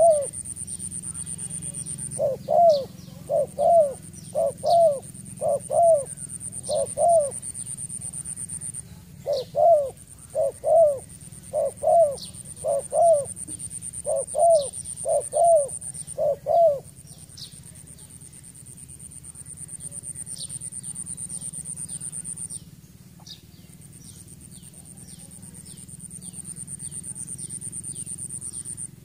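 Spotted dove cooing: short coos about one a second in two runs with a pause between, stopping about two-thirds of the way through. Small high chirps from other birds and a steady high-pitched buzz go on underneath.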